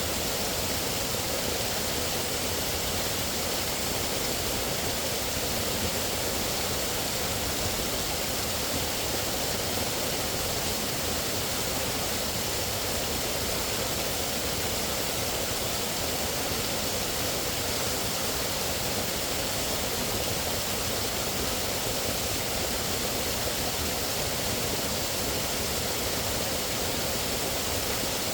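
Steady, even rushing noise of outdoor nature ambience, unchanging throughout, with no distinct calls or events standing out.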